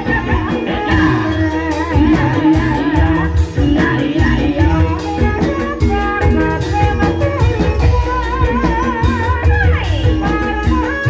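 Gending ebeg, the live music that accompanies a kuda kepang dance: a singer's wavering, ornamented voice over drums and steady pitched instruments, playing throughout.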